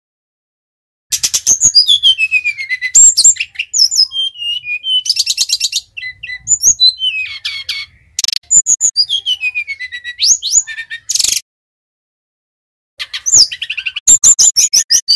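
Brown-chested jungle flycatcher (sikatan rimba dada coklat, Bali type) singing loudly. It gives rapid chattering trills and whistles that slide down in pitch, in bursts, with a pause about two-thirds of the way through.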